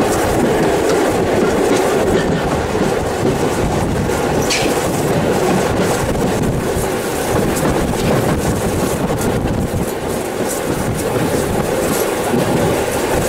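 Heritage steam train under way, heard from a carriage: a steady rumble of wheels on the track with light clicks as they pass over rail joints.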